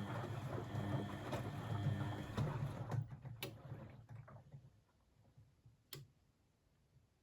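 Blomberg WAF 7442 SL washing machine turning its drum, with water sloshing over a low motor hum; the tumbling stops about three seconds in and fades out. Two sharp clicks follow, the second near the end and the louder.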